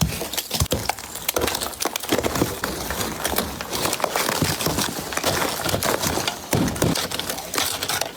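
Ice-laden tree branches crackling and snapping: a dense, irregular run of sharp cracks and splintering, as ice and wood break.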